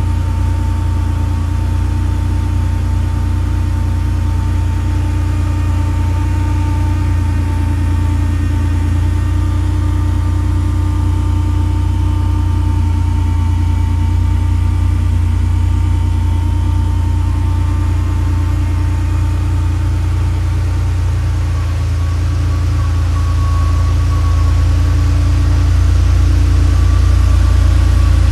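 Air-cooled flat-six engine of a 1988 Porsche 911 Targa idling steadily shortly after a cold start, growing a little louder over the last several seconds.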